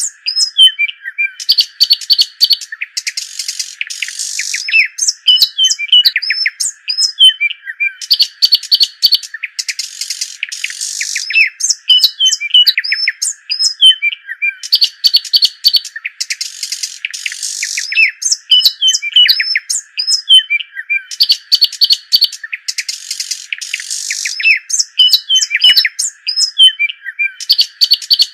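Small birds chirping and twittering: quick trills and short gliding calls, with the same run of calls repeating about every six and a half seconds.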